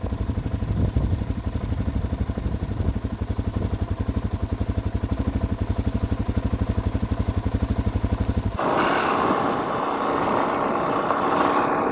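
Single-cylinder dual-sport motorcycle engine running with an even, rapid pulsing beat. About eight and a half seconds in it cuts abruptly to the rush of wind over the engine as the bike rides along.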